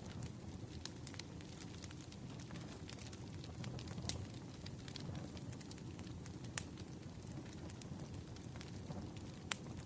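Firewood burning: a steady low rush dotted with frequent small crackles and a few sharper pops, the loudest about two-thirds of the way in and near the end.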